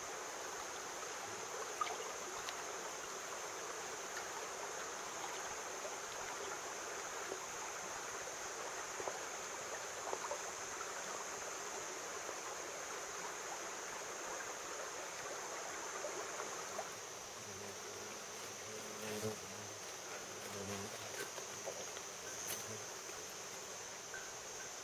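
Steady high-pitched drone of insects, with a rushing water-like hiss beneath it that fades about 17 seconds in; a few faint knocks follow.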